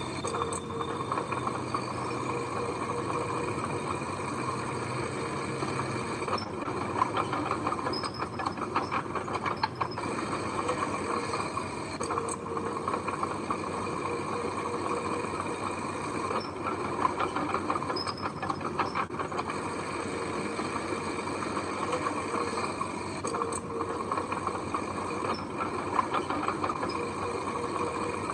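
Heavy earthmoving machinery working: an engine running steadily under a continuous metallic clatter, with irregular clanks throughout.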